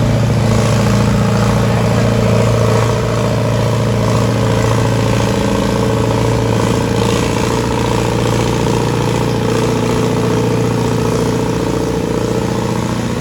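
Antique farm tractor engine running loud and steady at a constant speed, with only a slight dip in level about three seconds in.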